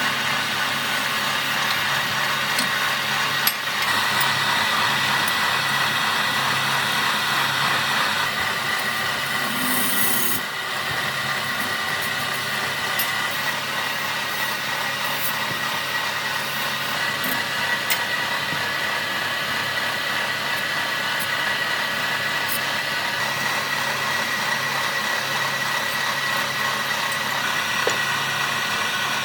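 Electric power tool running steadily while working wood, with a steady high whine over its noise; it eases slightly about ten seconds in.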